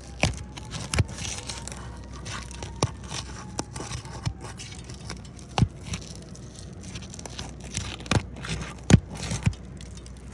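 Metal roof snake pried under asphalt roof shingles, scraping, with irregular sharp cracks as the shingles' sealant strips break loose.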